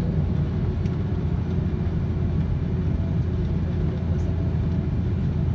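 Steady low rumble inside the cabin of an Airbus A330 taxiing after landing.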